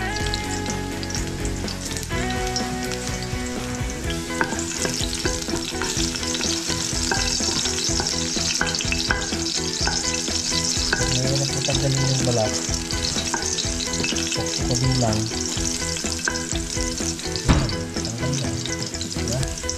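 Vegetables sizzling and frying in olive oil in a pan while being stirred with a utensil that clicks against the pan. The sizzle grows louder about four seconds in, and there is one sharper knock near the end.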